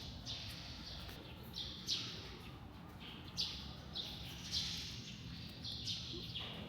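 A bird chirping: short, high chirps repeating about once a second over low background noise.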